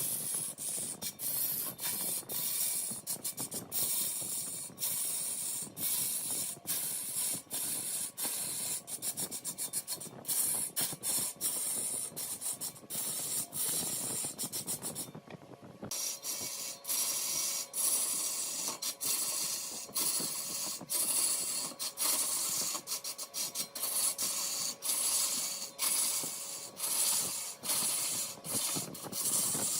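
Wood turning on a large lathe: a cutting tool shaving spinning mahogany, giving a steady hissing scrape dotted with many quick clicks. The sound breaks off briefly about halfway through and then carries on.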